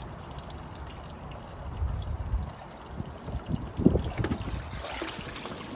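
Garden pond water trickling steadily, with a low rumble about two seconds in and a few short knocks a little before four seconds.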